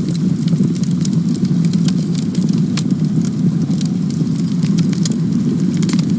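Campfire burning: a steady low rush of flames with frequent sharp, irregular crackles and pops from the burning wood.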